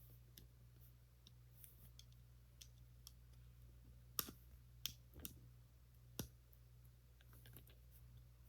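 Plastic Lego pieces being handled and snapped together: faint scattered clicks, with four sharper clicks bunched together about halfway through.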